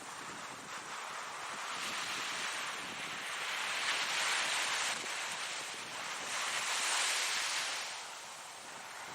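Ocean waves breaking and washing in, swelling twice, with a steady hiss of surf between.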